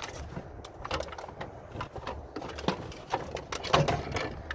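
Small pieces of scrap metal knocking and clattering as they are handled, in irregular clicks and clanks, with a louder cluster of knocks near the end.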